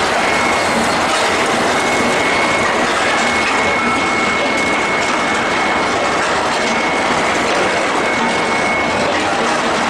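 Steel-ball forging production line with its induction bar heating furnace running: a loud, steady machinery din with a thin high whine that comes and goes.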